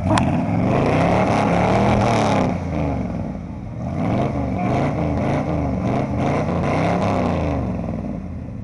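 Pickup truck's engine revving hard while mudding, its pitch climbing and dropping several times with tyre and mud noise under it, easing off near the end.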